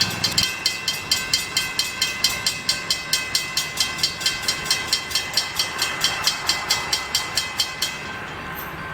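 Railroad crossing bell ringing rapidly, about four to five strokes a second, over the sound of a train. The bell stops about eight seconds in.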